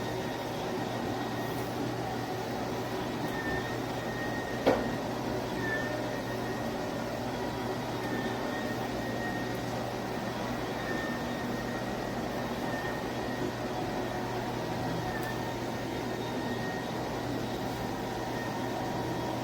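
Cordless dual-motor electric spin mop running steadily, a low motor hum with a faint high whine, and one sharp click about five seconds in.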